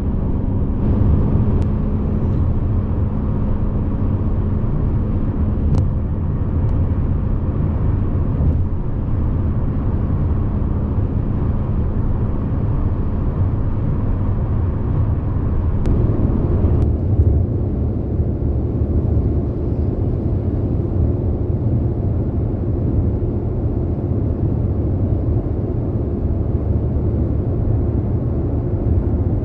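Car driving, heard from inside the cabin: a steady drone of engine and road noise. About halfway through, the engine's hum shifts to a different pitch.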